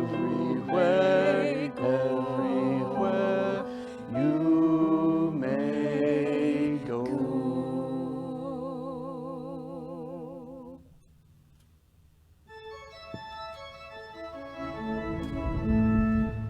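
Singing with organ accompaniment ends on a long held note with vibrato, which fades out about eleven seconds in. After a brief pause, an organ begins playing steady sustained chords.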